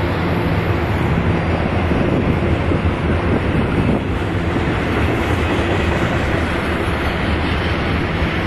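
Union Pacific intermodal freight train's double-stack container cars rolling past, a steady rumble of steel wheels on rail.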